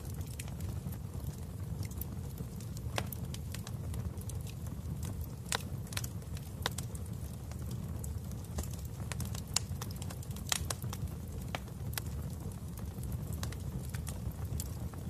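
Wood fire in a fireplace crackling: scattered sharp pops and snaps at irregular intervals over a steady low rumble of the flames.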